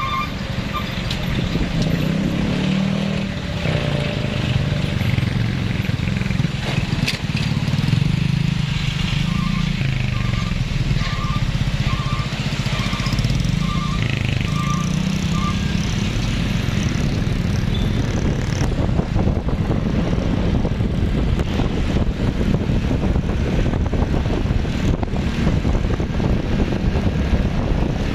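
Truck engine running, its pitch rising and falling, with a short beeping alarm repeating for several seconds about nine seconds in.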